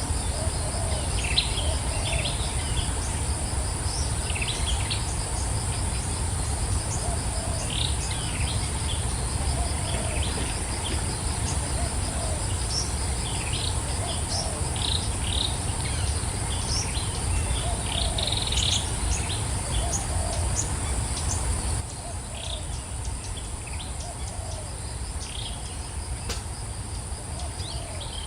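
Wild birds giving scattered short chirps and calls over a steady high-pitched insect chorus with a fast pulsing trill, above a constant low rumble. About three-quarters of the way through, everything drops a little in level and the birds thin out.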